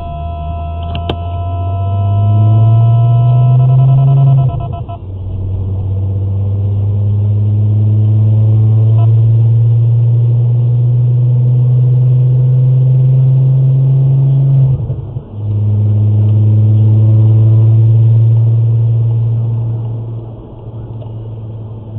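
Car engine pulling away and accelerating, its low drone rising in pitch, then dropping briefly at a gear change about four and a half seconds in and again about fifteen seconds in, and otherwise running steadily at cruising speed. For the first five seconds, steady electronic alert tones from the Escort Redline radar detector, sounding for a K-band radar signal, play over the engine and then stop.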